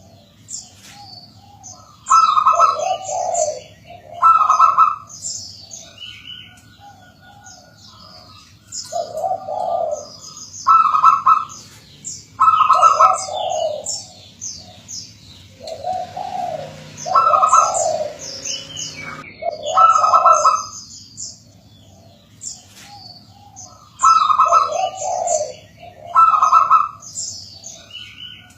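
Zebra dove (perkutut) cooing over and over, its low, broken coo phrases coming every two seconds or so, loudest around the middle. Fainter high chirps of other small birds run between the coos.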